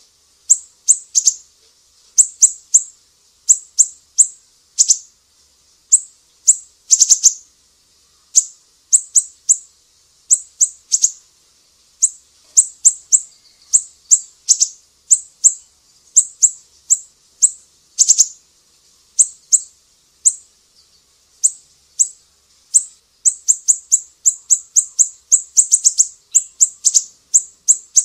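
A small songbird's high, sharp chirps, each a quick downward flick, given in rapid groups of two to six with short pauses between groups.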